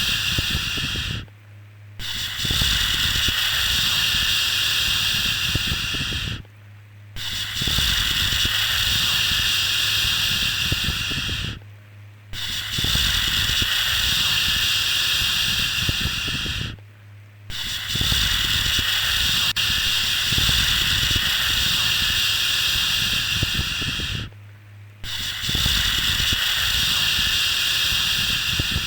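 Repeated 'shhh' shushing for calming a baby to sleep: long hissing shushes of about four to seven seconds each, broken by short pauses of under a second, over a faint low hum.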